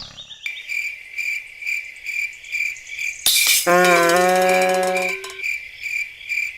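Insect chirping, cricket-like, in a steady pulse of about three chirps a second. Near the middle a short hiss is followed by a held pitched tone that lasts about a second and a half.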